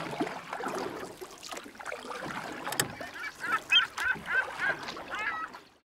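Birds calling in a quick run of short, repeated calls, about three a second, over a noisy background, fading out just before the end.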